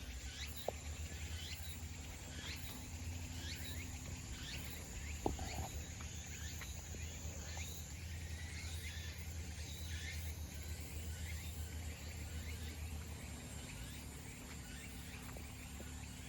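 Summer garden ambience: a steady high-pitched insect drone with many short, downward-sweeping bird chirps over a low rumble. A couple of brief clicks come near the start and about a third of the way in.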